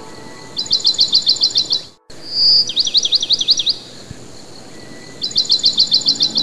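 A songbird singing in three quick runs of about ten rapid, high, falling chirps each. The sound cuts out briefly about two seconds in.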